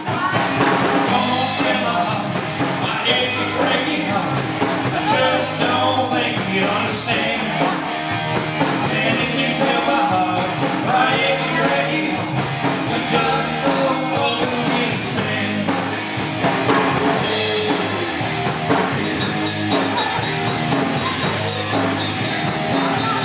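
Live band playing an upbeat rock-and-roll dance number, with drum kit and guitar.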